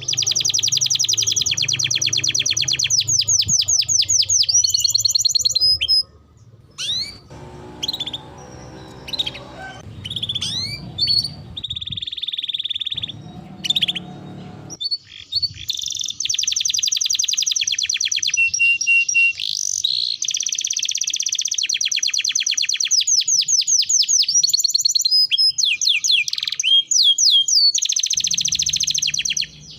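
Domestic canary singing: long, very fast rolling trills of high notes, with a few seconds of shorter separate chirps and gliding whistles in the middle before the rolling resumes.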